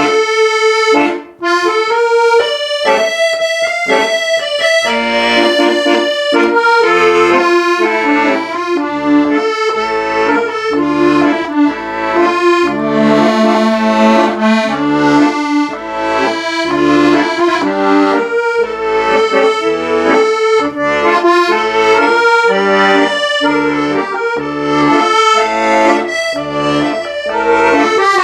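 Accordion music: a melody over a steady, regular bass-and-chord accompaniment, with a brief break about a second in.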